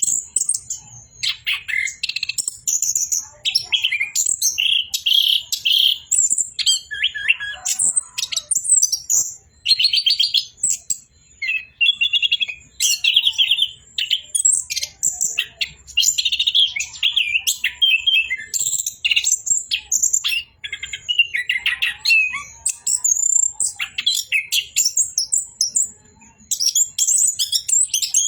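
Orange-headed thrush (anis kembang) in full, loud song: a long run of varied, rapid chirps, trills and whistles with only brief breaks, the continuous 'rolling' song of a bird in top singing form.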